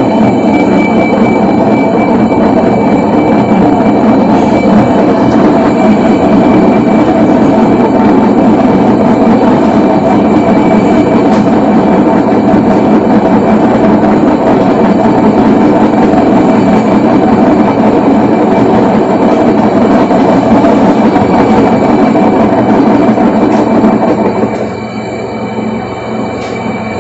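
Electrolux LT10B washing machine running with a loud, steady mechanical rumble and a constant high whine, the noise of the fault it has; the level drops a few seconds before the end.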